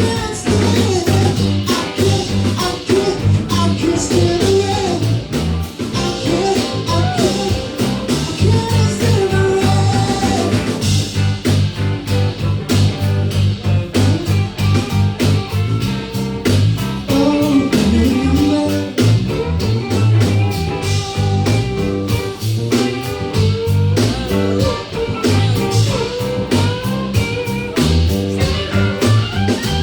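Cover band playing a blues-rock song: singing over electric guitar, a pulsing bass line and drums.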